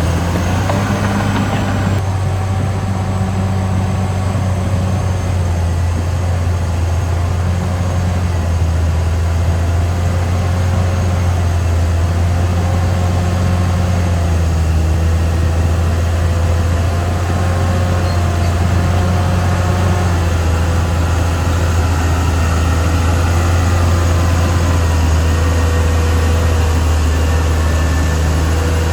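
Caterpillar D6R XL bulldozer's diesel engine running steadily under working load, a deep, even drone whose pitch wavers slightly.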